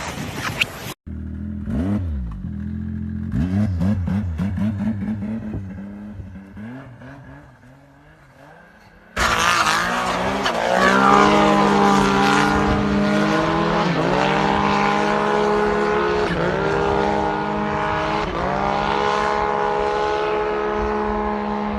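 Snowmobile engines revving. First one engine revs up and down and fades away. Then, after a sudden cut, a louder engine runs hard, its pitch dropping and climbing again every two or three seconds.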